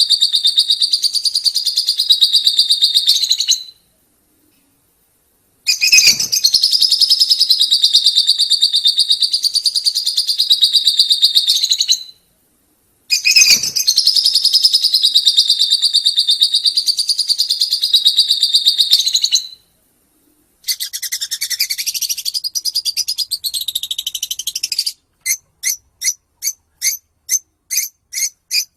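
Lovebird 'ngekek': long, rapid chattering trills of several seconds each, three times over with silent breaks between. Near the end comes a shorter chatter, then a string of separate sharp chirps about two or three a second.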